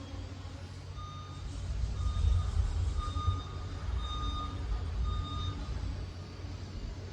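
Liebherr PR 746 crawler dozer reversing: its diesel engine rumbles, getting louder about two seconds in, while its back-up alarm beeps five times, about once a second.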